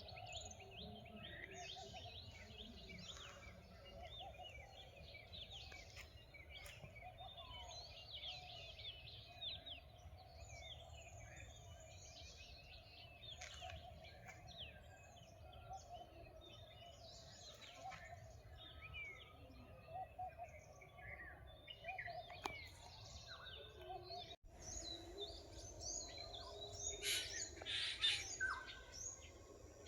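Many birds chirping and calling in a forest dawn chorus over a steady hum and low rumble, with louder chirps near the end. The sound drops out for an instant about three-quarters of the way through.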